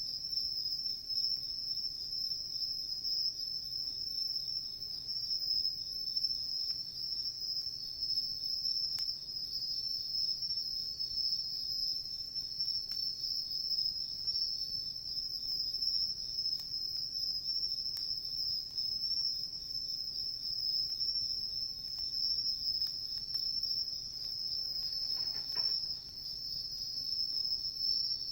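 Crickets chirring in a continuous high trill, with a few faint pops from the campfire.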